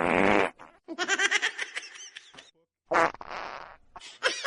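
Two short, loud raspy bursts about three seconds apart, with a run of quick high-pitched cries between them.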